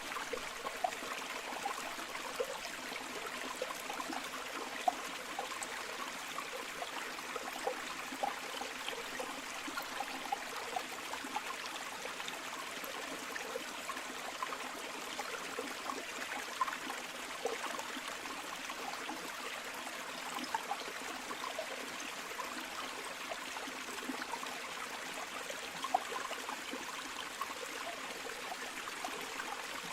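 Shallow river or stream flowing steadily over stones, a continuous rushing with many small splashes and gurgles.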